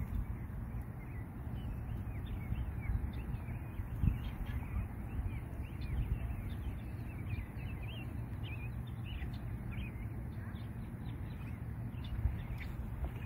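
Many small birds chirping in quick short calls throughout, over a steady low rumble.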